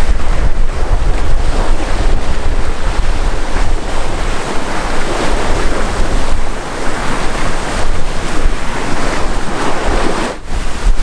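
Wind buffeting the microphone over water rushing past the hull of a sailboat under sail at about 8 knots. It is a loud, steady noise that drops away briefly near the end.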